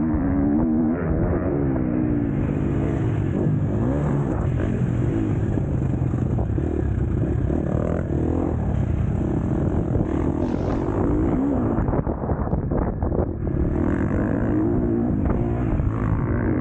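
KTM 250 SX-F four-stroke motocross bike engine racing, its pitch rising and falling as the throttle opens and closes through the gears. Around twelve to thirteen seconds in it briefly drops off the throttle, with a few sharp knocks.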